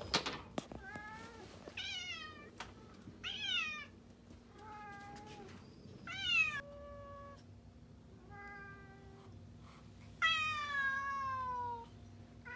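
Cat meowing repeatedly, about eight meows of varying pitch, most falling at the end; the last one, near the end, is the longest and loudest.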